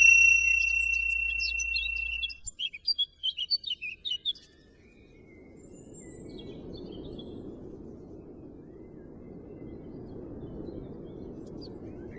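A high, bell-like ringing tone sounds and fades over about two seconds. Birds then chirp in a quick run of short calls for about two seconds. After that only a faint soft hush remains.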